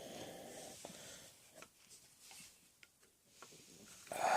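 Quiet room tone with a few faint soft clicks, then a short noisy breath-like sound near the end.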